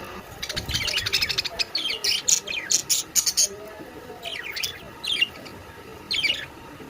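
Caged pet birds chirping. A dense run of rapid, high-pitched chirps starts about half a second in and lasts about three seconds, followed by a few shorter bursts of calls near the end.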